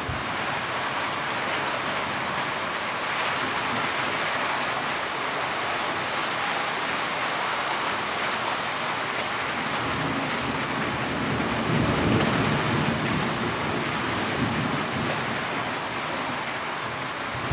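Heavy rain falling steadily, with a low rumble of thunder that swells about ten seconds in, peaks and fades a few seconds later.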